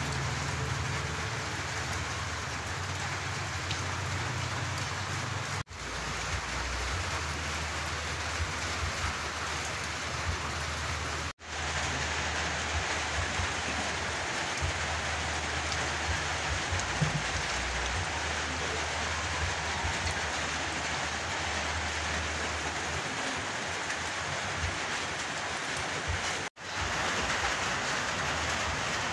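Steady heavy rain falling, an even hiss of rain with a low rumble underneath. It drops out for an instant three times.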